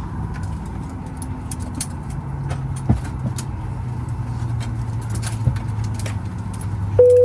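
Inside the cabin of a parked Boeing 737 MAX 9: a steady low hum from the aircraft's air system, with scattered small clicks and knocks from passengers moving about. Near the end a single cabin chime sounds, loud, with one steady tone that fades after about a second.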